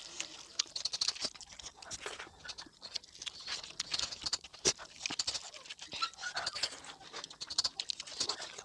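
Close-miked mukbang eating sounds: steady chewing with many quick wet clicks and lip smacks.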